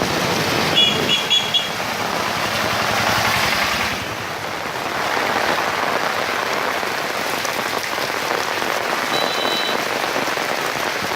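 Steady rain falling, a continuous even hiss of drops. Three short high chirps come about a second in, and one more high chirp near the end.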